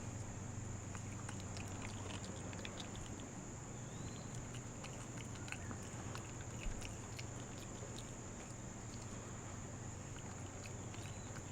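Pet monkey eating: faint scattered small clicks and smacks of chewing, with two short high chirps, one about four seconds in and one near the end, over a steady background hum.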